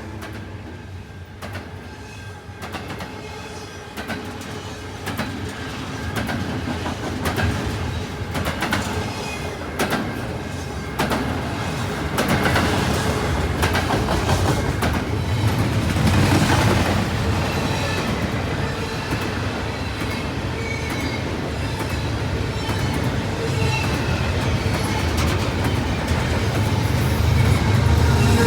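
Freight train rolling past, its wheels clicking over the rail joints. The low rumble grows steadily louder toward the end.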